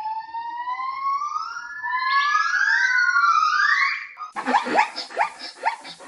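Several long, rising whining calls overlap for about four seconds. Then a dog starts yipping rapidly, about three yips a second.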